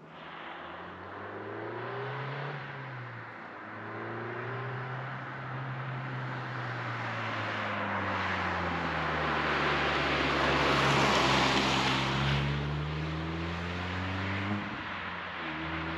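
Renault Twingo RS Gordini's four-cylinder engine with an Inoxcar 80mm stainless aftermarket exhaust, driven on the road. The engine note climbs, eases and climbs again, loudest a little past the middle. Shortly before the end the pitch drops suddenly, like a gear change, then rises again.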